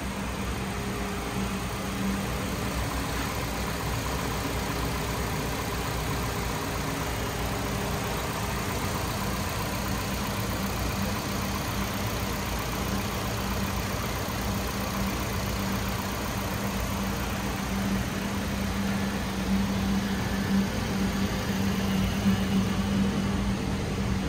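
2014 Nissan Sentra's 1.8-litre four-cylinder engine idling steadily, a little louder near the end.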